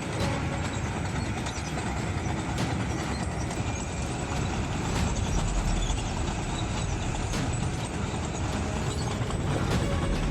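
Large tracked trencher running: steady heavy machine noise with a few faint knocks at intervals.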